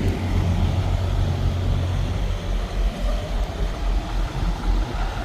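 Steady low drone of a semi truck running, engine and road noise together with no break.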